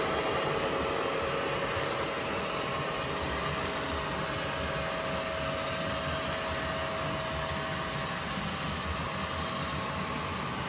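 Diesel train engine running steadily, with a faint steady tone held over the rumble.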